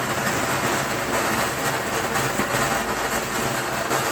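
Firework fountain burning with a steady, even hiss of spraying sparks.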